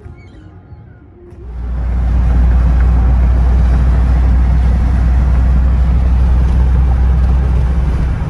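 Steady low rumble of a car being driven, road and engine noise, coming in about a second and a half in after a quieter start.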